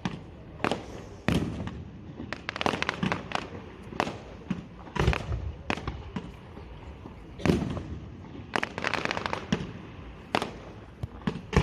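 Fireworks display: aerial shells bursting in an irregular string of sharp bangs, some in quick clusters of crackles, each bang echoing.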